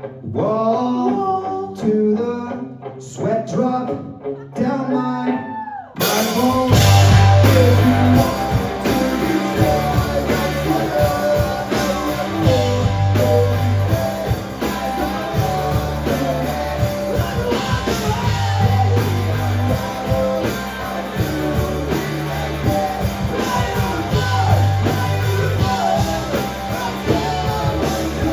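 Rock band playing live. A sparse passage of singing over guitar gives way, about six seconds in, to the full band coming in loud with drums, bass and guitars.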